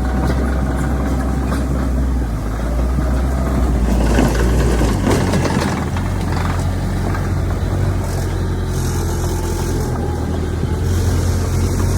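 Heavy diesel engine of earthmoving machinery running, its low drone shifting in pitch a couple of times. There is a noisier, rougher stretch about four to five seconds in.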